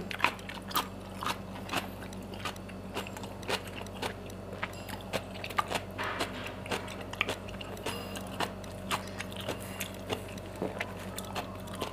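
Close-up eating of siomay with cabbage in peanut sauce: chewing with many small wet mouth clicks, and a spoon now and then scraping in a styrofoam box. A low steady hum runs underneath.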